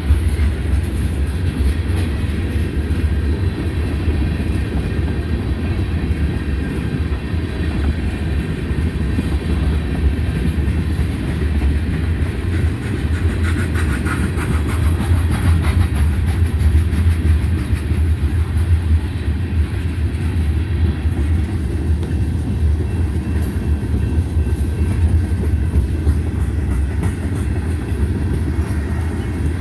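Manifest freight train rolling past: a steady low rumble of its cars running on the rails.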